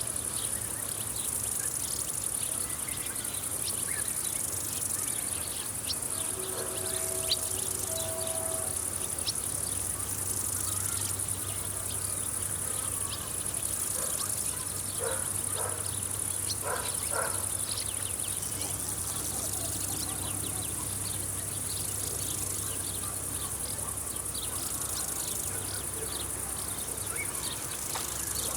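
Summer field insects, crickets or grasshoppers, chirring in a steady high-pitched chorus with scattered ticks, over a faint low hum.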